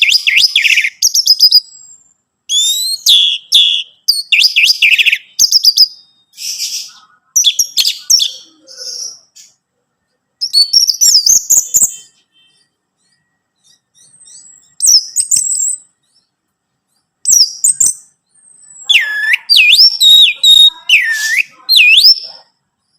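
Orange-headed thrush singing: bursts of rapid, varied whistled phrases separated by short pauses, with a longer break about halfway through. Near the end come deeper swooping notes that dip and rise again.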